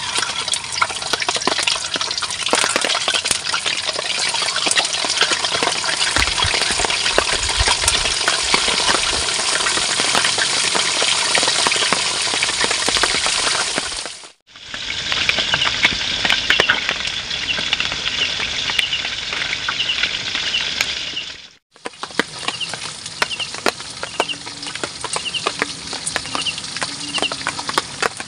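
Food deep-frying in hot oil in a wok: a steady crackling sizzle. It drops out abruptly twice and comes back a little quieter after the second break.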